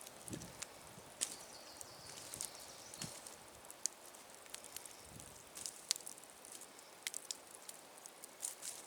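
Wood campfire crackling, with irregular sharp pops and snaps, and a few soft low thuds.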